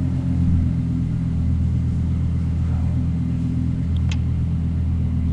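Lexus LFA's 4.8-litre V10 idling steadily at the rear exhaust, with a small click about four seconds in.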